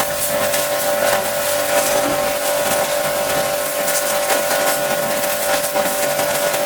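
Pressure washer running steadily, its motor holding one steady whine under the hiss of the water jet spraying.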